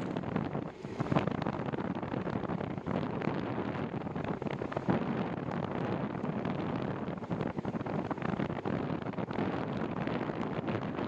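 Wind buffeting the microphone of a moving bicycle rider: a steady rushing noise with brief louder gusts and knocks, the loudest about a second in.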